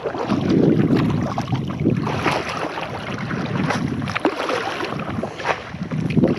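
Water sloshing against a fishing kayak's hull in surges, with wind buffeting the microphone.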